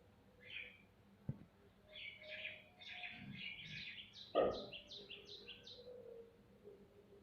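Small birds chirping, ending in a quick run of about six short falling notes. A sharp click comes just over a second in, and a louder thump about four seconds in.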